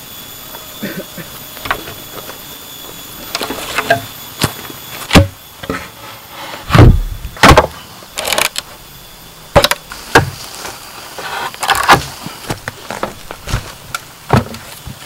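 Irregular knocks and clatters of work with hard objects, about a dozen strikes at uneven intervals, the loudest in the middle of the stretch, over a faint steady high-pitched tone.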